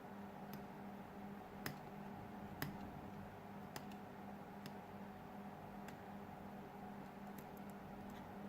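Faint, scattered clicks and taps, about eight in all at uneven intervals, from small tools and phone parts being handled during a smartphone teardown, over a steady low electrical hum.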